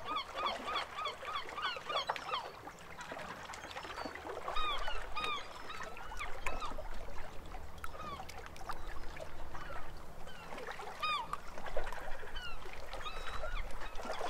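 Birds calling: a quick run of short, nasal, arching notes, about four a second for the first two seconds, then scattered calls of the same kind.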